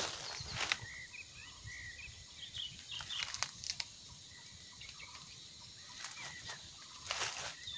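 Birds chirping in many short, quick calls that rise and fall in pitch, with bursts of rustling near the start and near the end.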